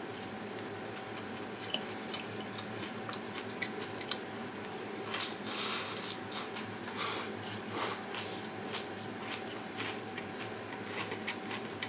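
Quiet eating sounds: scattered small clicks and mouth noises of chewing food, with two short breathy rushes near the middle, over a faint steady hum.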